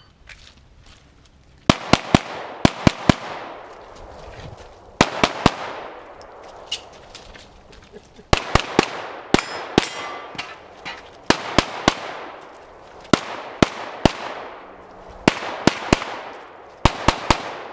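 Pistol shots fired during a timed competition stage: about seven quick strings of two to six shots, a second or two apart, each string ringing off in echo.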